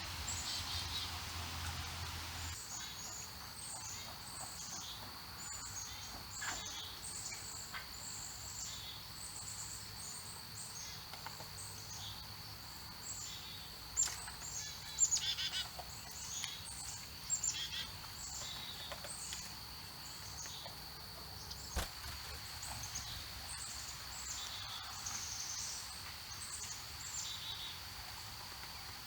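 Small birds chirping over and over in quick, short, high notes, with a few louder calls about halfway through, over a steady high-pitched whine.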